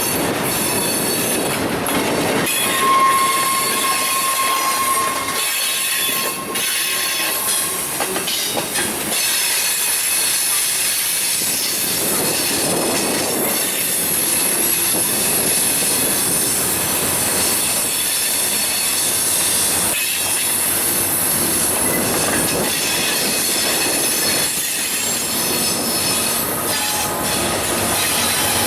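Railcars rolling past with their steel wheels squealing against the rail and some clickety-clack over the joints. A single steady squeal stands out for a few seconds near the start.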